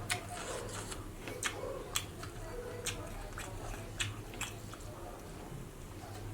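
A person chewing food close to the microphone, with sharp, irregular wet clicks and crunches from the mouth, over a low steady hum.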